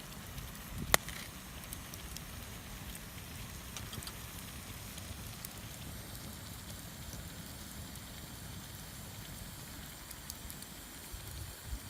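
Wood campfire crackling: a steady hiss with scattered small pops and one sharp pop about a second in.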